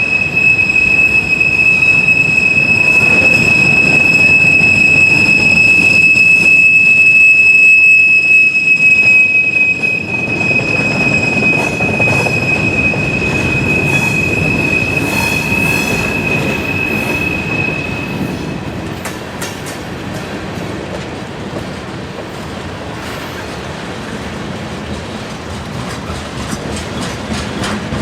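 Freight train rolling past with its steel wheels squealing on a curve: one steady high-pitched squeal over the rolling noise of the cars. The squeal stops about two-thirds of the way through, leaving the quieter clatter of the wheels.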